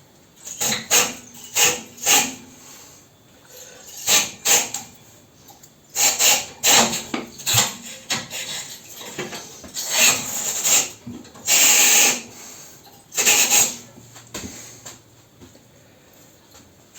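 Round tube-cleaning brush scraping through the heat-exchanger tubes of a Centrometal ZV 14 pellet stove, in a series of irregular rough scraping strokes with short pauses between them.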